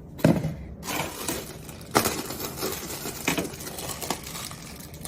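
Kitchen utensils clinking and knocking against dishes: several sharp clinks, the loudest about a quarter second in and at two seconds.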